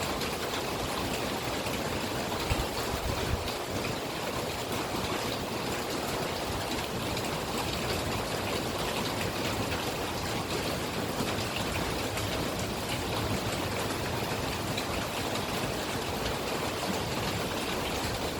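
Steady rain falling, an even wash of drops with no break.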